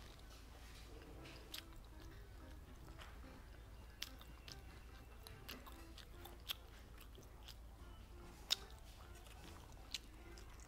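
Close-miked chewing of a soft gummy eyeball candy jelly, with wet mouth clicks and smacks scattered irregularly, the loudest about eight and a half seconds in.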